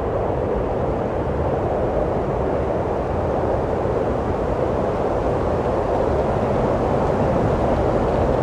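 Steady rushing wind, a continuous low hissing roar that swells slightly toward the end.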